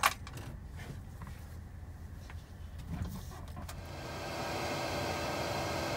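A sharp click, then a steady mechanical hum that builds up about four seconds in, heard inside a truck cab.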